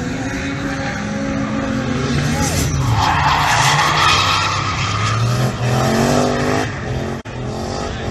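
Turbocharged LS1 V8 car engine revving up and down under load, with a loud rushing noise about three seconds in and another rising rev near the end.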